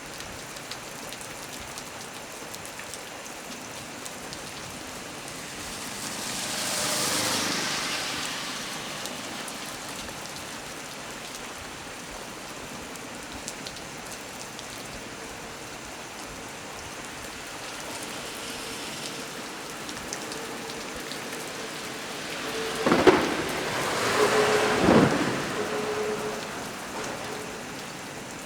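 Heavy rain falling steadily on a small tree, with thunder: a rolling swell about six seconds in, then two sharp cracks close together near the end.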